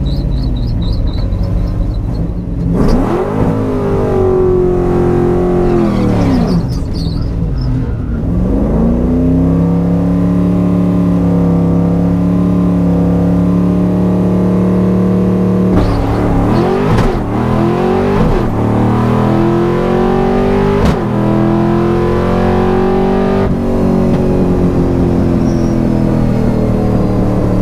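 Fox-body Mustang's Ford 5.0 V8 on a drag-strip run, heard from inside the car. It is revved up and down, then held at a steady speed. About halfway through it launches hard, the pitch climbing through three gear changes, then it falls away as the throttle comes off near the end.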